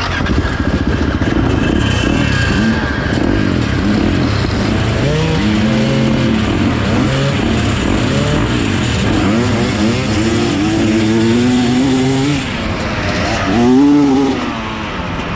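Enduro dirt bike engines running and revving up and down over and over, with a louder rev near the end.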